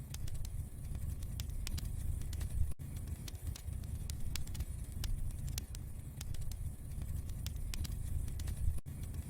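Wood fire crackling in a fireplace: scattered sharp pops and snaps over a steady low rumble of the flames. The sound drops out for an instant twice.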